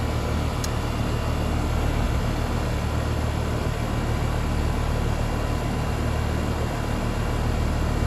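Outdoor condensing unit of a newly charged R-410A air conditioner running: a steady, even hum from the compressor and condenser fan, with the system holding steady at about 10 degrees of subcooling.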